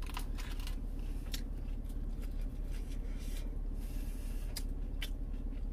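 Close-up wet chewing of a breaded chicken nugget dipped in ranch: irregular smacking clicks, with a cluster near the start and a few more later, over a steady low hum.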